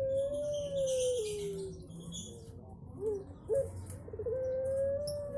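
Puter pelung dove cooing: each call opens with a few short stuttering notes, then a long held coo that steps down and slides lower as it fades. There are two calls, the second starting about three and a half seconds in and still sounding at the end. Small birds chirp faintly in between.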